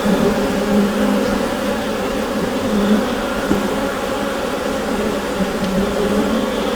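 Bees buzzing inside a hive: a dense, steady hum of many wings together, centred on a low pitch with several overlapping tones that swell and fade slightly.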